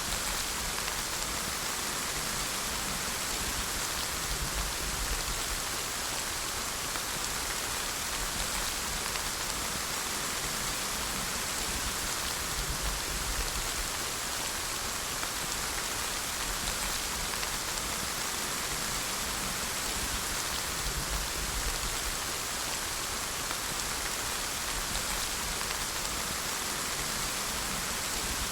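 Steady rain falling, an even hiss of many drops on surfaces with a faint low rumble underneath.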